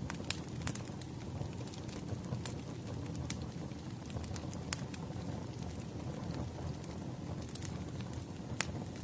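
Wood fire crackling: a steady low rumble of burning logs with irregular sharp pops and snaps.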